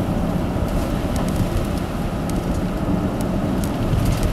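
Steady road noise inside a car's cabin at highway speed: engine and tyres running on a wet, snowy road, with a few faint scattered clicks.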